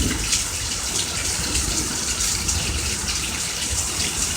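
Heavy rain pouring down, a dense, steady hiss of falling water.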